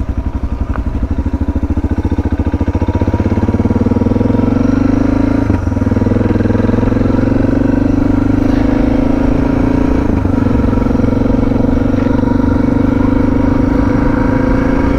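Suzuki DR650's single-cylinder four-stroke engine ticking over with slow, distinct firing pulses, then pulling away, its pitch climbing slowly. The engine note breaks briefly twice, about five and ten seconds in.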